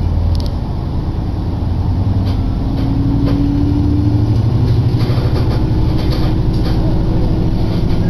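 Diesel railcar running, heard from inside the car: a steady engine drone over the rumble of wheels on rail. A humming tone rises slightly about two and a half seconds in and fades out about two seconds later.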